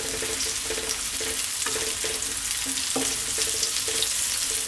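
Minced garlic and chopped chilies sizzling in hot oil in a nonstick pan, a steady frying hiss, while a spatula stirs them with a couple of light scrapes and taps against the pan.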